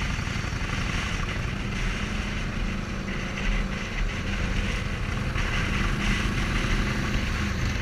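Motorcycle engine running steadily under way, mixed with steady wind and road rush.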